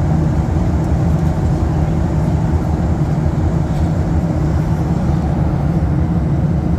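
Steady low cabin drone of a Boeing 737-800, heard from a passenger seat inside the cabin.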